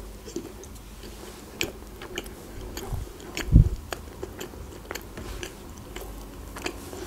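Close-miked biting and chewing of a soft chocolate-filled croissant, with scattered small mouth clicks. One low thump comes about three and a half seconds in.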